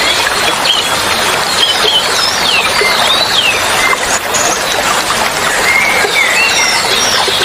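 Steady rush of flowing water with small songbirds calling over it: quick high whistled notes that sweep up and down, bunched a couple of seconds in and again near the end.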